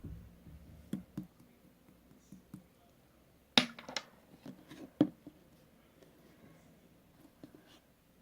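Scattered light clicks and knocks of small objects being handled, the two sharpest about three and a half and five seconds in.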